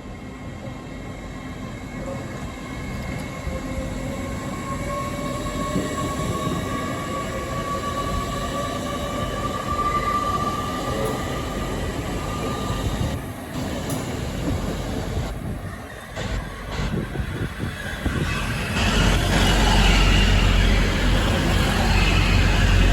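A train moving at the station platform, its motor whine rising slowly in pitch as the sound grows louder; a heavier low rumble comes in near the end.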